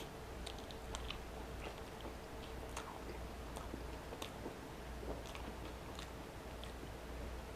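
A person chewing a big mouthful of burrito close to the microphone: small wet smacks and clicks at an uneven pace, over a faint steady low hum.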